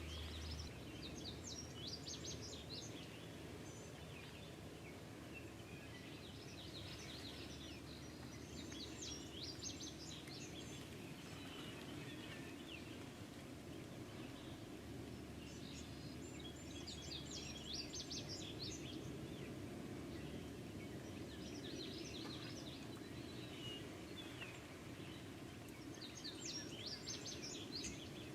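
Faint birdsong in short, high, rapid phrases, repeating every few seconds over a steady low background rumble.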